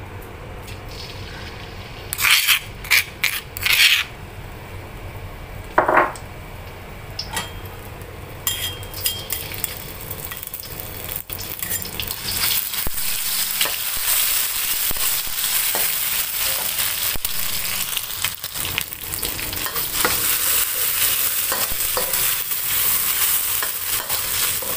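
Pounded paste of garlic, shallots and chilli frying in hot oil in a steel wok, sizzling while a metal spatula stirs and scrapes it. A few sharp clinks come in the first several seconds, and the sizzle grows louder and steadier from about halfway.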